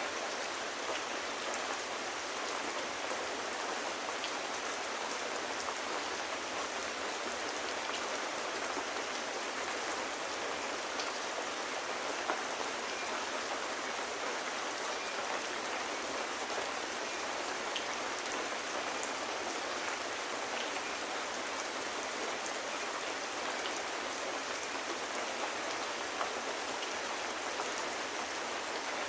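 Steady rain falling, an even hiss with scattered small ticks of drops, one a little louder about twelve seconds in.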